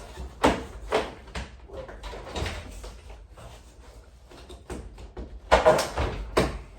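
Irregular knocks and rubbing bumps, like panels or a door being handled: a few near the start, a quieter stretch, then a louder cluster of knocks about five and a half seconds in.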